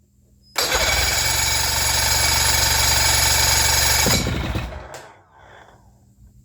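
Old outboard motor catching and running for about three and a half seconds, then dying away. It has trouble staying running, which the owner puts down to varnish in the carburetor. It starts up again at the very end.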